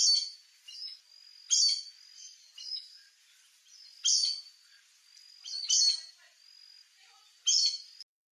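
A bird giving short, sharp high calls, about one every second and a half to two seconds, with a faint thin high note going on between them. The sound cuts off abruptly near the end.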